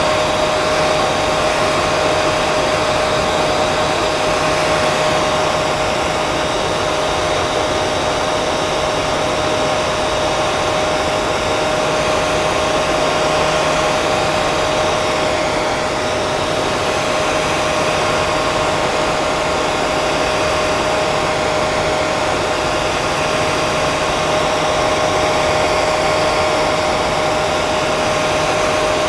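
Hair dryer running steadily: a continuous rush of blown air with a constant motor whine.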